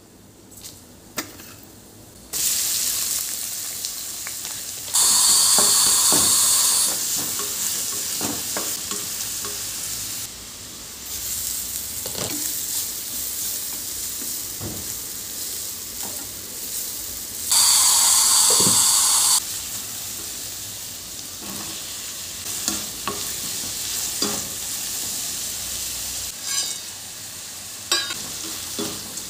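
Food frying in hot oil in a pan, sizzling, with a utensil scraping and stirring it. The sizzle starts about two seconds in and flares up loudly twice for about two seconds each.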